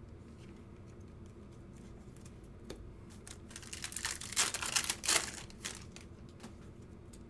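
Trading cards and their packaging being handled by hand: crinkling and rustling with scattered light clicks, busiest in a run of louder rustles around the middle.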